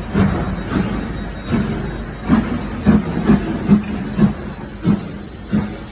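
A train moving at close range: a steady rumble with irregular clattering knocks, about two a second, typical of wheels running over rail joints and pointwork.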